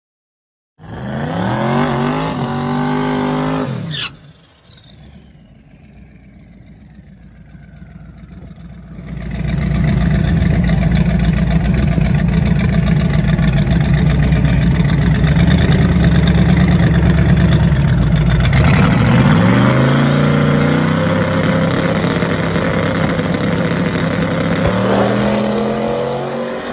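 Chevy Nova drag car's engine held at high revs through a burnout, then a falling whistle as the revs drop. After that comes a loud, deep, steady idle, then a launch: revs climb with a rising whistle and step up once near the end.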